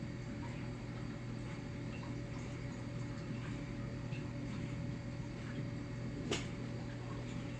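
Steady low background hum with faint scattered small ticks, and one sharp click about six seconds in.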